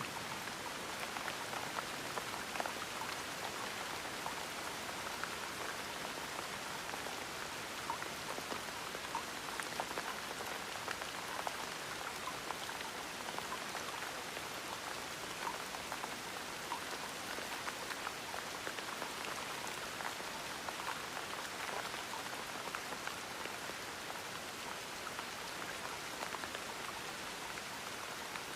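Steady gentle rain, with the close patter of individual drops landing on a surface.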